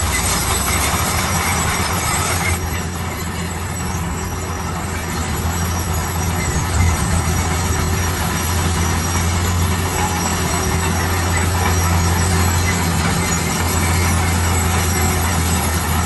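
Heavy diesel construction machinery running steadily: a low engine drone under a noisy rumble. A higher hiss drops away about two and a half seconds in.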